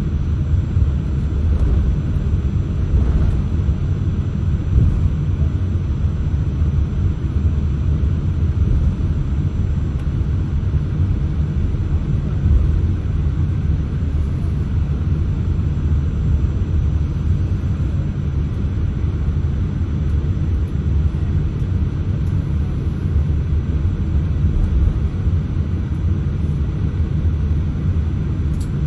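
Steady low rumble inside the cabin of a Boeing 787-8 taxiing, its Rolls-Royce Trent 1000 engines running at low taxi power. A short click near the end.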